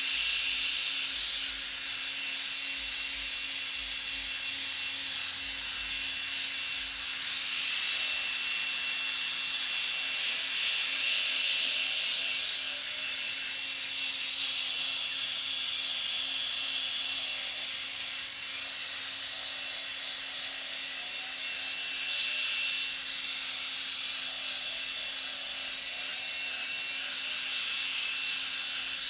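Drill spinning a P800 sanding disc against a plastic headlight lens: a steady gritty hiss over the drill motor's hum, swelling and easing as the disc is pressed and moved across the lens.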